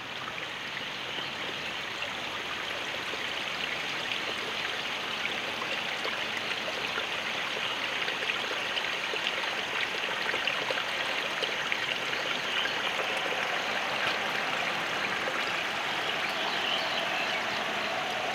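Steady rushing of running water, an even noise that doesn't let up. A faint steady hum joins it near the end.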